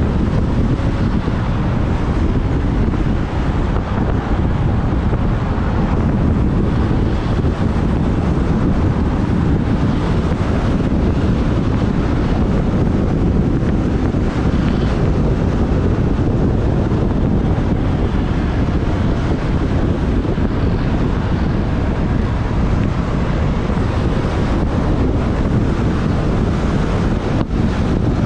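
Wind buffeting the microphone of a camera riding on a moving motorbike: a loud, steady rushing noise, heaviest in the low end.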